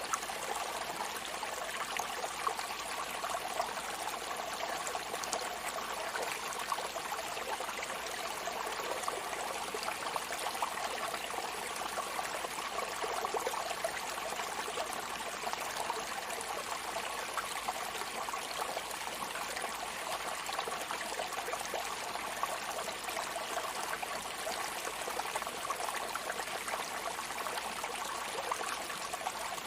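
Steady rushing, trickling water with an even, unbroken level and no separate wave surges.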